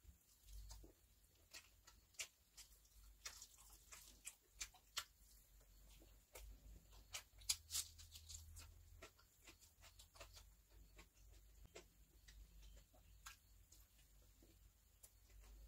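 Faint chewing and mouth clicks of someone eating biryani and mutton curry by hand, many short irregular clicks.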